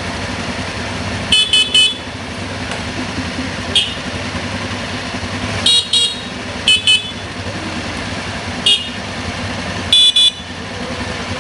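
Motorcycle horn giving short, high-pitched beeps in singles, pairs and a triple, about a dozen toots in all, over the steady running of engines on the road.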